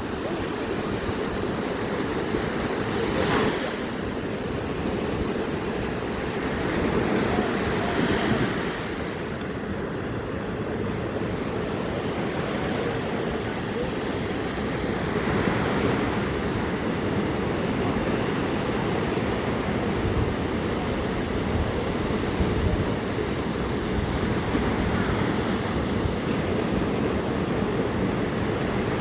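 Sea waves washing onto the shore, surging every few seconds, with wind blowing on the microphone.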